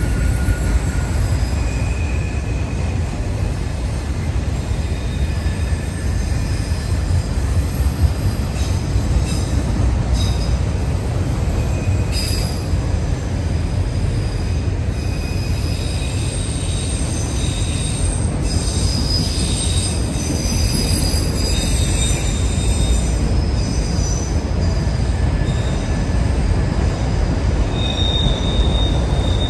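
Train rolling through a tight curve: a steady low rumble of the cars on the rails, with short high-pitched wheel flange squeals coming and going.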